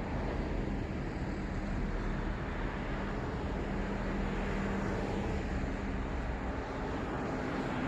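Steady city road traffic: a continuous wash of passing cars and tyre noise with a low engine hum underneath.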